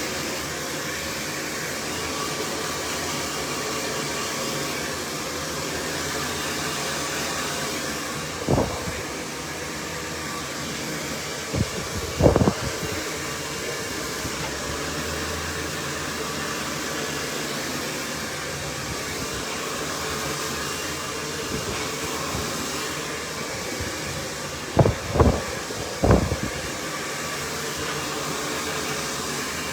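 Cloud 9 hair dryer blowing steadily, with a few short knocks in two clusters, one about a third of the way in and another near the end.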